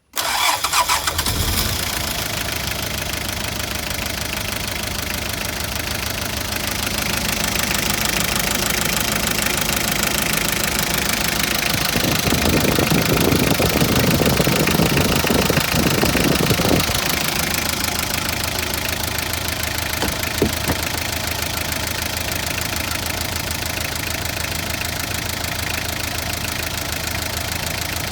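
Mitsubishi L300 diesel engine catching as it is started, then running with a steady diesel clatter; it runs louder for several seconds in the middle before settling back to an even idle. The uploader takes the engine, which smokes from the oil cap, to possibly have blow-by from worn piston rings or high crankcase pressure.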